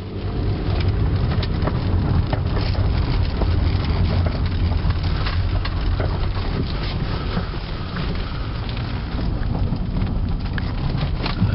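A 1997 Toyota Avalon's tyres rolling over rough, stony ground: a steady low rumble with many sharp crackles and pops of stones.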